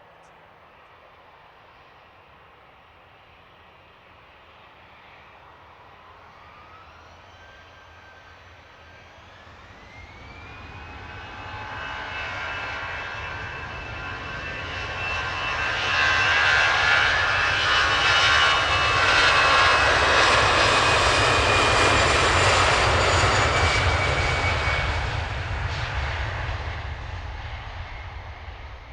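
Airliner's engines passing close by. The sound swells over several seconds, with a whine rising in pitch partway through, holds loud for several seconds, then fades near the end.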